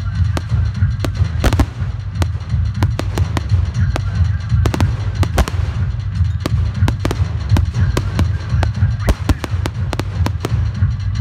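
Aerial fireworks display: shells bursting and launching in an irregular run of sharp bangs, several a second at times, over a continuous low rumble.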